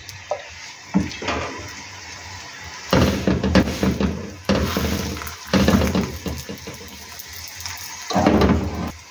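Paratha frying in freshly added oil on a hot iron tawa, sizzling in several louder surges as it is pressed and turned by hand on the pan.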